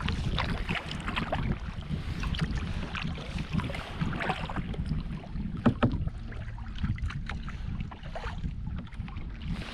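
Kayak paddling: the paddle dips and splashes in irregular short strokes with water dripping, over a steady low rumble of wind on the microphone. The sharpest splash or knock comes a little past halfway.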